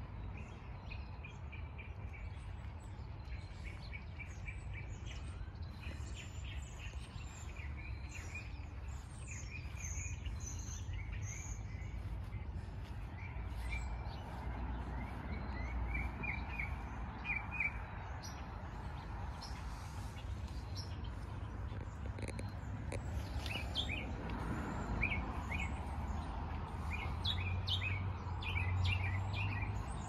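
Several small songbirds chirping and twittering in short, high calls, busy through the first half, thinning out for a few seconds after the middle, then picking up again toward the end, over a steady low background rumble.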